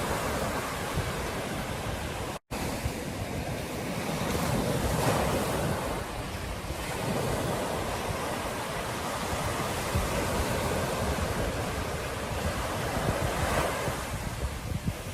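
Ocean surf washing onto a beach, a steady rush that swells and eases as waves come in, with wind buffeting the microphone. About two and a half seconds in, the sound drops out to silence for a split second.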